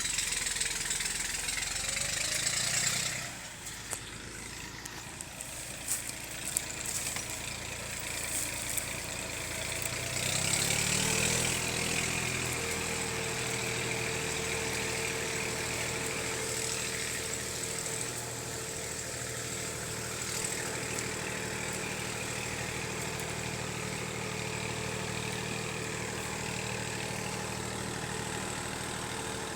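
Small farm tractor's engine running. About ten seconds in its pitch rises, then it holds steady under load; a few knocks and rattles come before that.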